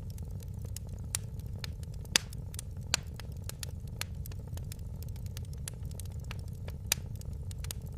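Wood fire crackling: a steady low rumble of flames with many small sharp pops, a few louder ones, the loudest about two seconds in.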